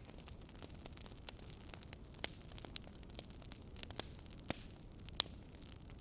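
Wood fire crackling in a fireplace: a few sharp, irregular pops over a low, steady rumble of the burning fire.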